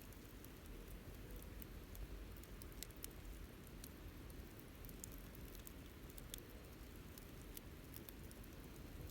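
Wood campfire crackling softly: scattered small sharp ticks and pops over a low, steady rumble.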